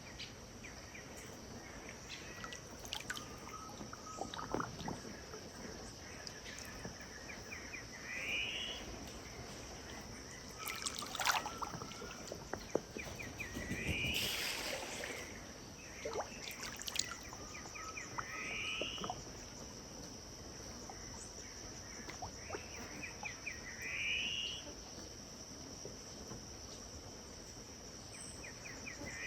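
Riverside ambience: a bird repeating a short phrase of quick notes ending in a rising slur about every five or six seconds, over a steady high insect drone, with the soft sound of river water and a few brief louder water noises.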